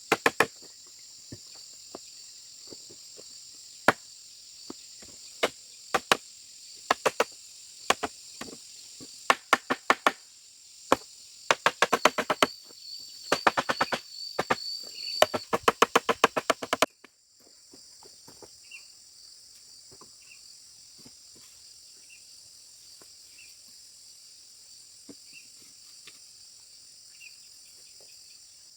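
Sharp knocks of a tool striking bamboo, at first spaced out, then in a quick run of several strikes a second, over a steady high drone of crickets and other insects. The knocks stop abruptly about two-thirds of the way through, leaving only the insect drone with a faint chirp every second and a half or so.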